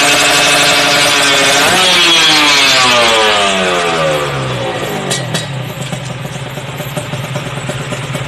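Kawasaki Ninja R 150's two-stroke single-cylinder engine running through an aftermarket racing exhaust, held at high revs, blipped once briefly about two seconds in, then let go so the revs fall away steadily and settle to idle. Two light clicks come about five seconds in.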